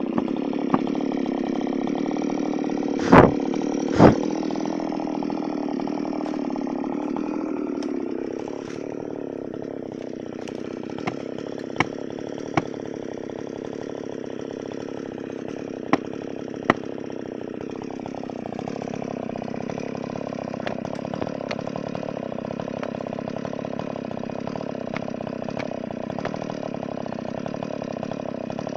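Chainsaw engine running steadily, easing off about 8 seconds in and picking up again around 18 seconds. Two loud sharp knocks come about three and four seconds in, with fainter clicks scattered after.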